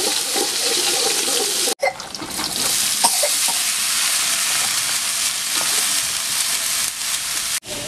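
Chilies, shallots and garlic sizzling in hot oil in a wok as a spatula stirs them; after a sudden short break about two seconds in, shredded green papaya sizzles as it stir-fries in the wok.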